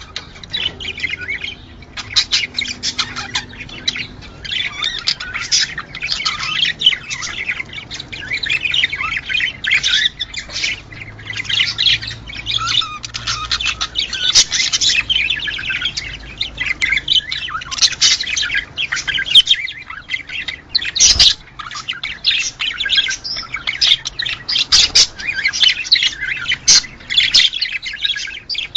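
A flock of budgerigars chattering and warbling nonstop, a dense stream of rapid chirps and squawks. A single dull knock sounds about three quarters of the way through.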